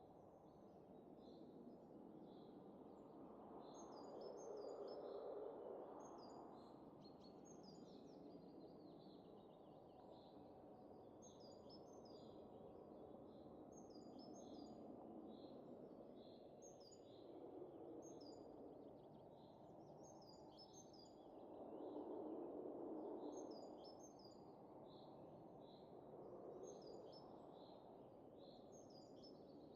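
Faint wind blowing in slow gusts, swelling about four times, with small birds chirping in quick repeated high notes throughout.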